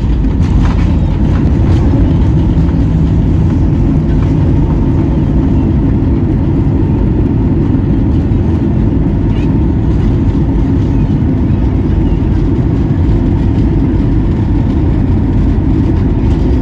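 Airbus A320 landing, heard from inside the cabin: a loud, steady low rumble of engine and airframe noise that holds level throughout.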